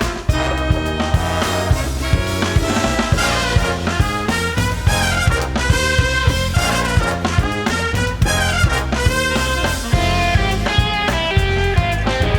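Big band playing an up-tempo swing arrangement, with brass and saxophone sections over bass and a driving drum beat.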